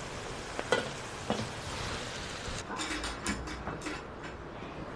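Duck giblets sizzling in a hot wok as they are stir-fried, with a few sharp knocks of the spatula against the pan. The sizzle thins out about halfway through.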